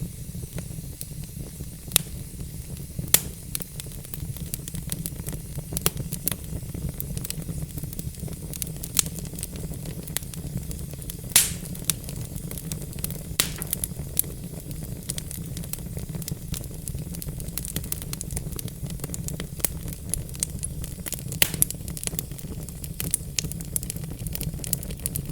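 Wood fire crackling: logs burning with irregular sharp pops and snaps over a steady low rumble of the flames, with a few louder pops.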